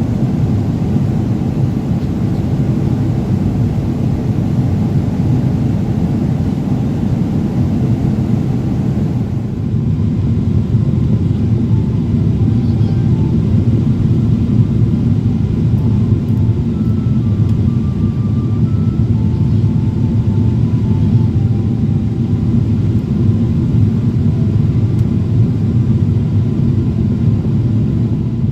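Steady cabin noise inside a Boeing 777-300ER in flight: the low drone of its GE90 engines and the airflow around the fuselage, heard from a passenger seat. The higher hiss thins slightly about a third of the way through.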